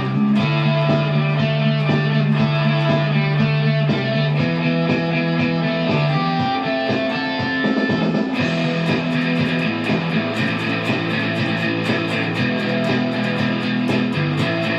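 Electric guitar playing a rock song over a backing track with bass; a steady beat of cymbal ticks comes in about eight seconds in.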